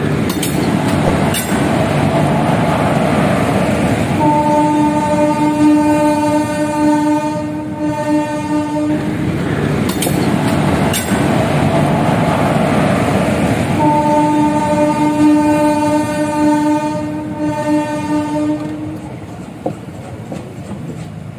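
Train sound effect: a train rumbling along the track with a long steady horn blast, then the same rumble and horn blast again about ten seconds later.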